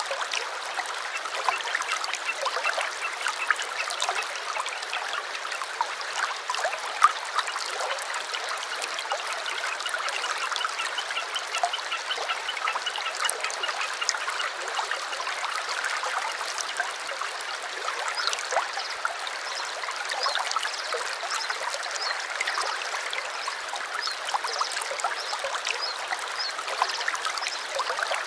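A small stream babbling steadily over stones, with birds chirping and calling in short repeated notes throughout.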